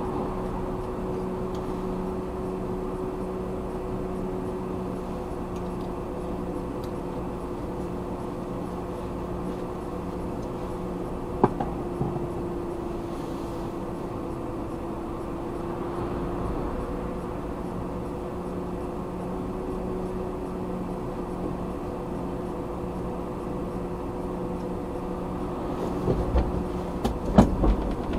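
Car engine running at a steady pitch, heard inside the car through a dashboard recorder. There is a single sharp click about halfway through, and a few knocks with a louder rumble near the end.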